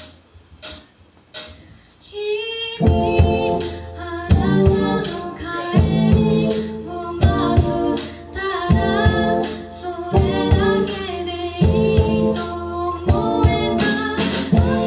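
A live rock band of drums, electric guitar and bass starting a song: three sharp clicks about 0.7 s apart, like a drummer's stick count-in, then the full band comes in about three seconds in, with a female voice singing.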